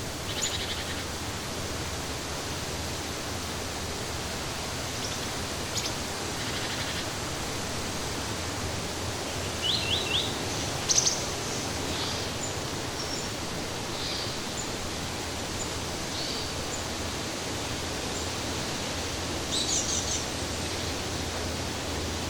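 Steady rush of flowing water with short bird chirps and trills now and then. The chirps are loudest about ten seconds in and again near the end.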